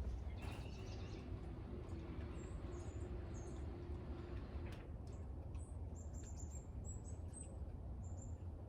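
Small birds chirping: short, high chirps now and then, coming in a quicker run near the end, over a steady low background rumble.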